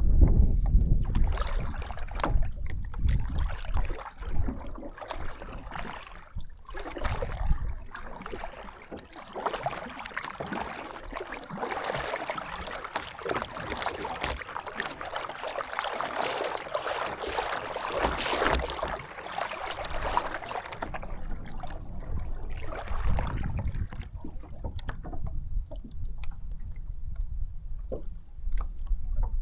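Water splashing and lapping around a canoe, densest through the middle. Wind buffets the microphone at the start and again near the end.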